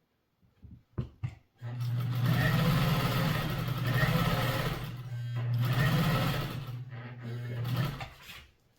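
Pfaff 130 sewing machine stitching a wide zigzag at speed: a few clicks, then about two seconds in it starts running fast with a steady hum, eases briefly about halfway, and stops near the end.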